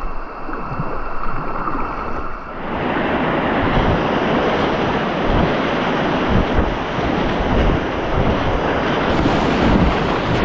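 Rushing whitewater of a river rapid, with wind buffeting the microphone; the rush grows louder about two and a half seconds in.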